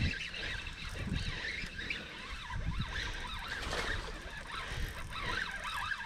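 Birds chirping repeatedly over a low rumble of wind and handling noise on the microphone.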